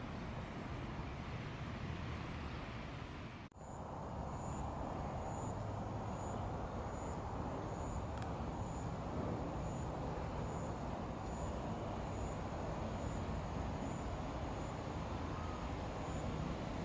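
Steady outdoor background rumble like distant traffic, with a faint high chirp repeating about once a second. The sound drops out for an instant about three and a half seconds in.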